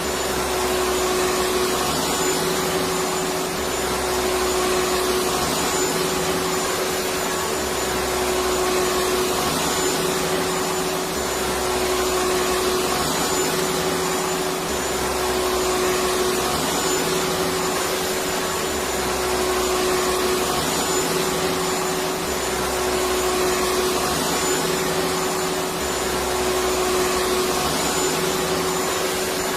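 Electric vacuum cleaner motor running steadily: a continuous whooshing drone with a constant hum, and a faint low pulse that repeats about every four seconds.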